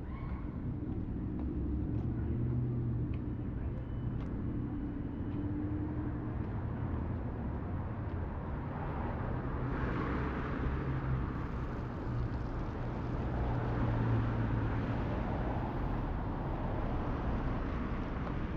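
City street traffic on a rain-wet road: a low vehicle engine hum throughout, with tyre hiss swelling about ten seconds in as traffic passes.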